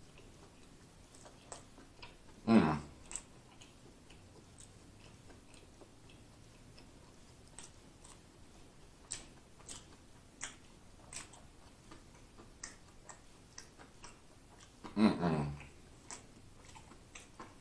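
Close-miked chewing of a sauce-dipped fried chicken sandwich: wet mouth clicks and smacks throughout. Twice, about two and a half seconds in and near the end, a short low hum that falls in pitch.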